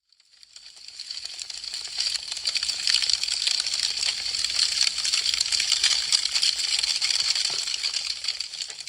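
Burning wood crackling and popping in a dense run of sharp little snaps. It fades in from silence at the start, swells to a steady crackle, and begins fading out near the end.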